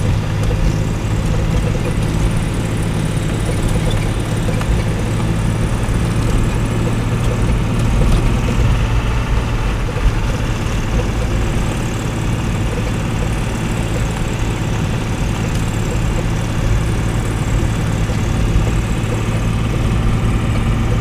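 Mazda Navajo's 4.0-litre V6 running steadily with a constant low hum, heard from inside the cabin as the SUV drives through snow.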